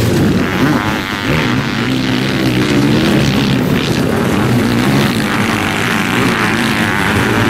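Racing engines of motocross sidecar outfits running hard on a dirt track, several at once, their pitch rising and falling as the riders open and close the throttle.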